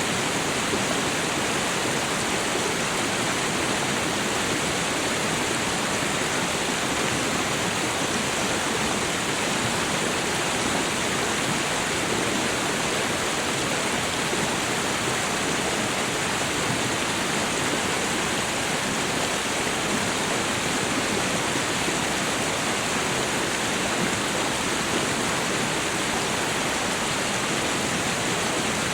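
Waterfall: falling water rushing steadily and evenly, with no changes.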